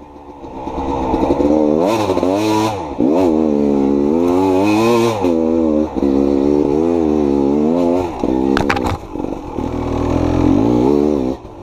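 Two-stroke dirt bike engine ridden hard, its pitch climbing and dropping again and again as the throttle is worked, with a brief sharp clatter about eight and a half seconds in.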